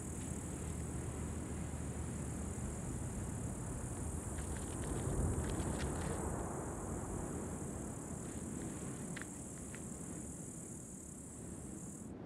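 Steady high-pitched insect chorus over a low rumble, with a few faint ticks near the middle. The chorus cuts off abruptly just before the end.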